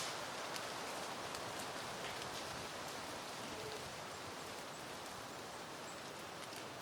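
Soft wind rustling through blooming peony foliage: a steady, even hiss that eases slightly, with occasional light ticks of leaves and petals.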